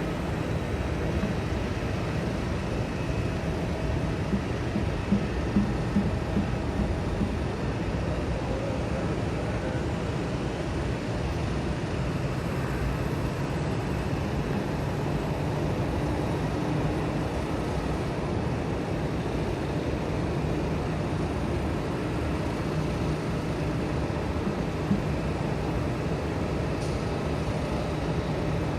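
Steady low rumble of jet aircraft engines at an airport, with a few faint engine tones and no sharp events.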